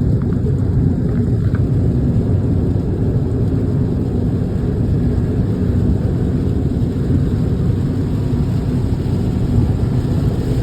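Rainstorm heard as a steady, loud low rumble, without distinct drop patter.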